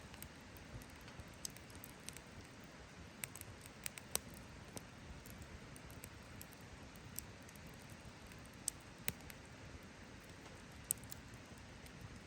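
Wood campfire crackling: irregular sharp pops and snaps over a low steady hiss, with the loudest snap about four seconds in.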